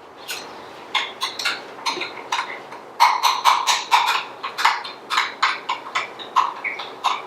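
A spoon stirring a sticky chia seed and water mixture in a small dish, clinking against the dish in quick regular strokes of about three a second. The clinking grows louder from about three seconds in.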